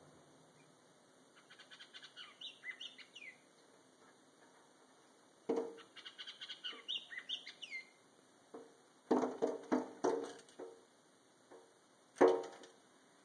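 A small bird singing two short, quick twittering phrases. These are followed by a rapid run of sharp taps and one loud knock, the bird hitting at the window glass it has been trying to get through.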